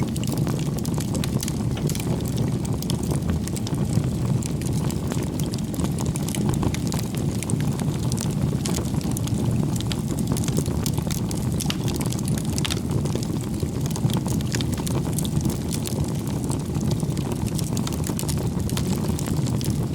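Bonfire burning: a steady low rumble of flames with frequent small crackles and pops scattered throughout.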